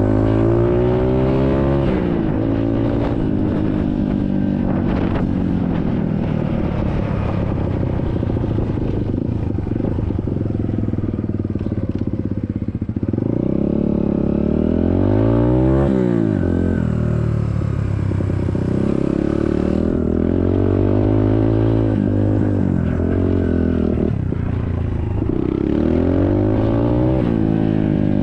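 SSR 150cc dirt bike's single-cylinder four-stroke engine running hard under acceleration, its pitch climbing with the revs and dropping back at gear changes several times.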